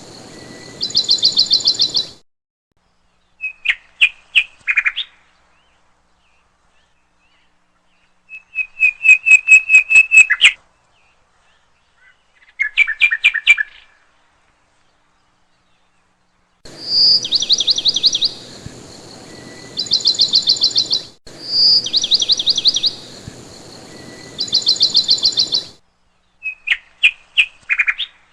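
Small birds singing and chirping in separate edited clips: fast trills of rapid high notes and shorter runs of chirps, each clip cutting off abruptly with silent gaps between. The same trilled phrase comes back several times.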